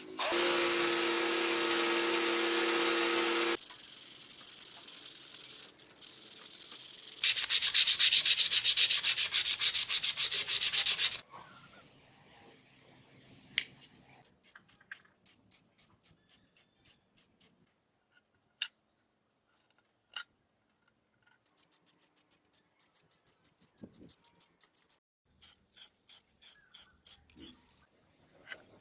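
A small power tool runs with a steady whine for about three seconds. Then come several runs of fast, rhythmic back-and-forth strokes of hand sanding or rubbing, a few strokes a second, with pauses between the runs.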